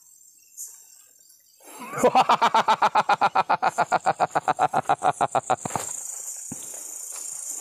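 A fast, evenly spaced pulsing call, about ten pulses a second, starts about two seconds in and lasts about four seconds. As it stops, crickets take over with a steady high-pitched shrill.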